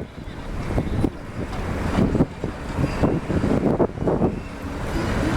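Strong gusty wind buffeting the microphone in uneven blasts, over a steady rumble that swells louder during the first couple of seconds and then holds.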